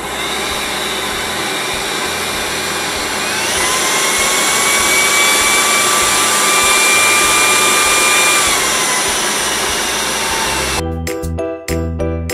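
LG CordZero A9 cordless stick vacuum running, a steady rush of air with a motor whine. About three and a half seconds in, the whine rises in pitch and the sound gets louder, as at a higher power setting; it drops back down about five seconds later, and the vacuum gives way to music near the end.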